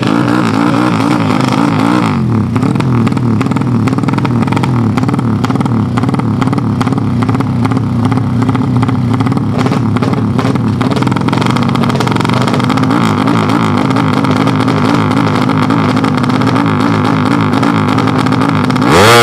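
Four-stroke underbone drag motorcycle engine running loud at high revs, its pitch wavering as the throttle is worked. Near the end it revs up sharply with a quick rise in pitch.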